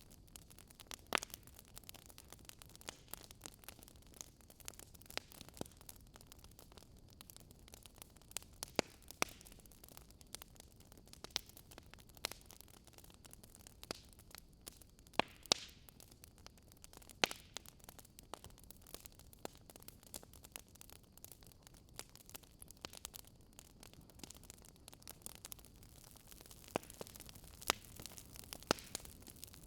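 Wood fire crackling softly: a steady low hiss with sharp, irregular pops and snaps every second or two.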